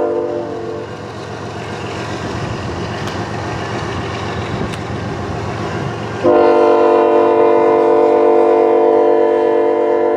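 Diesel locomotive's multi-note air horn sounding a steady chord. It cuts off about half a second in, leaving the rumble of the passing train, then starts again abruptly about six seconds in and holds.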